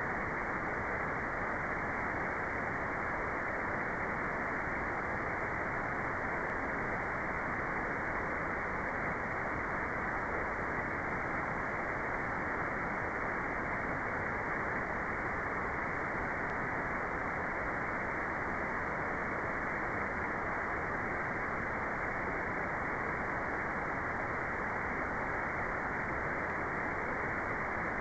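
Steady white-noise track, an even hiss that does not change, with its high end cut off above about 2 kHz so it sounds muffled.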